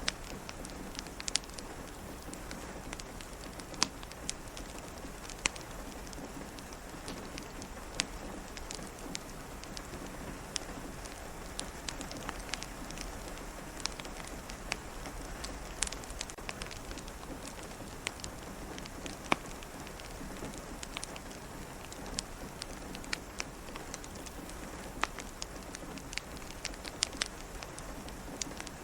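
Steady rain pattering, mixed with the scattered sharp pops of a crackling wood fire.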